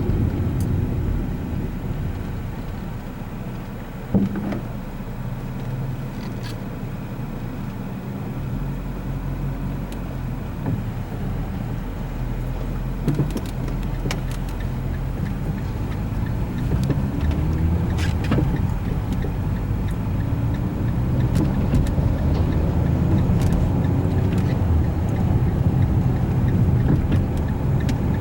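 Fiat Linea on a road test, heard from inside the cabin: engine and road noise, with the engine note rising several times in the second half as the car accelerates. A few short knocks sound over it.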